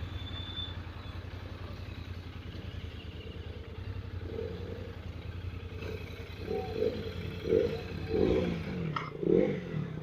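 Royal Enfield Continental GT650's parallel-twin engine idling with an even low pulse, with a few louder wavering swells in the second half.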